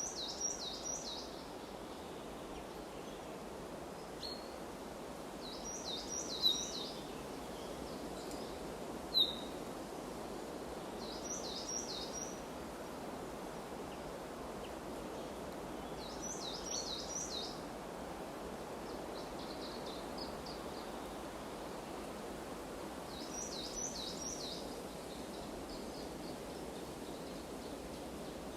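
A small songbird singing a short phrase of three or four quick high notes, repeated about every five or six seconds, over a steady hiss of forest ambience. Two brief sharp ticks sound about six and nine seconds in.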